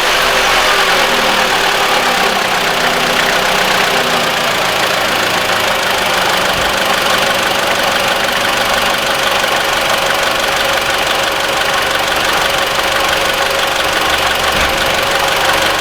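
Mitsubishi ASX 1.8-litre petrol four-cylinder engine idling steadily just after a start. The intermittent belt-drive rattle being hunted for does not show: "all quiet and calm".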